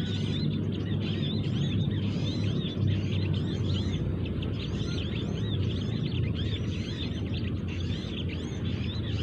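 Small birds chirping rapidly: a dense, continuous run of short, high, arched chirps, over a steady low rumble.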